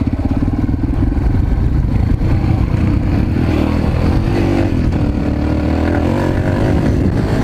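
Mini bike's small engine running under way, its pitch rising and falling with the throttle.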